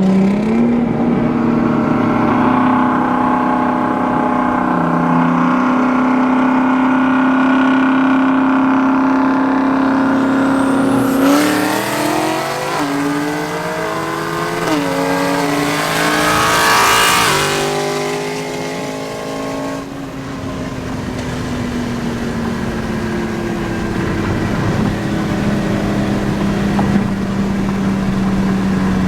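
Performance car engine holding a steady cruise, then accelerating hard for several seconds through a series of upshifts: the pitch climbs, drops at each shift and climbs again, with a rushing hiss near the top of the pull. The engine then backs off and settles to a steady drone.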